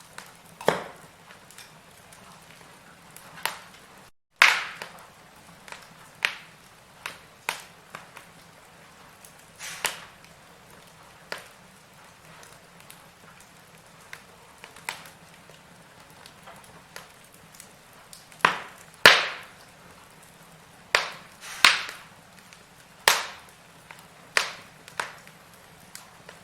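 Burning firewood crackling: irregular sharp pops and snaps over a faint steady hiss, with a cluster of the loudest pops about two-thirds of the way through. The sound drops out completely for a split second a little after four seconds.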